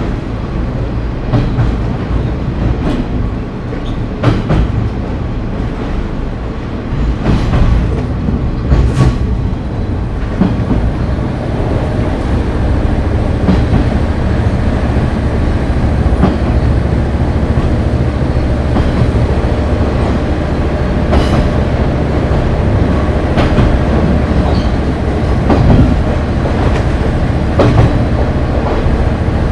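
KiHa 30 diesel railcar under way: wheels clicking over rail joints over a steady running rumble and engine hum. About ten seconds in the running sound grows louder and steadier as the car gathers speed.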